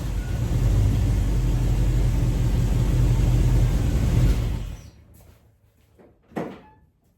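Car driving: a steady low engine and road rumble that cuts off suddenly about four and a half seconds in, followed by a single short thump near the end.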